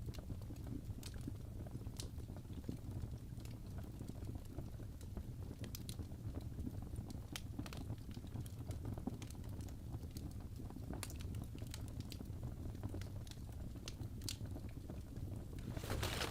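Crackling fireplace: a steady low rumble of the fire with irregular sharp pops and crackles, and a brief louder hissing flurry of crackles near the end.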